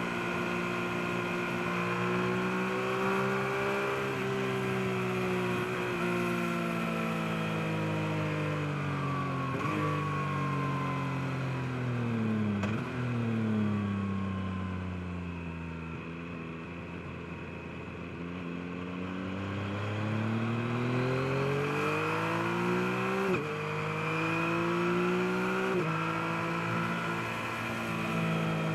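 Yamaha MT-09's 890 cc inline-three engine heard on board: the engine note falls steadily as the bike slows, with gear changes along the way, goes quietest about halfway through, then rises again under acceleration with two upshifts near the end.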